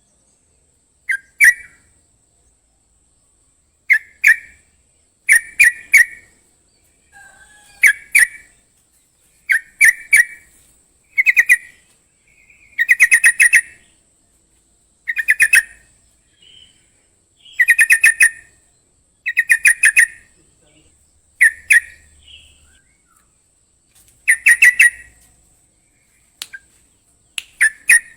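A songbird singing short, loud bursts of rapid chattering notes, repeated every couple of seconds. It is a 'crocokan'-style song used as tutor audio for training cage birds, with a faint steady high-pitched tone underneath.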